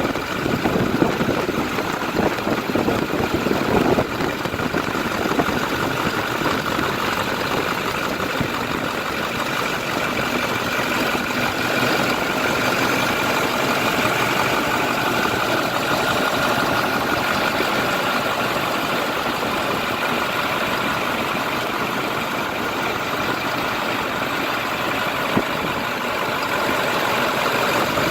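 2010 International DuraStar 4300 medium-duty truck's diesel engine idling steadily.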